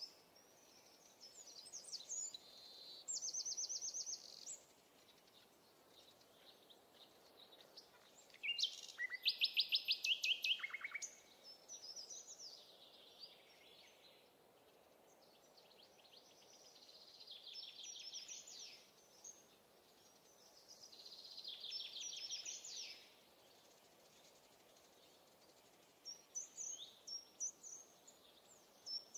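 Songbirds singing: short high phrases and trills every few seconds, the loudest a fast trill of rapidly repeated notes about nine seconds in, over a faint steady background hiss.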